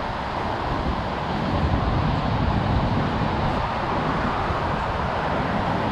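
Steady road traffic noise mixed with gusty wind rumble.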